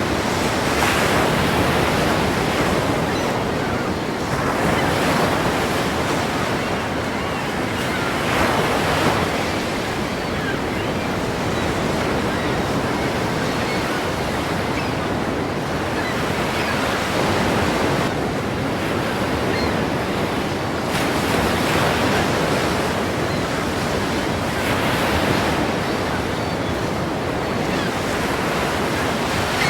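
Ocean waves breaking: a continuous rush of surf that swells with each wave every few seconds.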